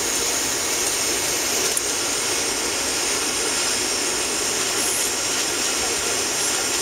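Steady cabin noise of a Boeing 757-300 taxiing, heard from inside the first-class cabin: the jet engines at idle and the hiss of the cabin air.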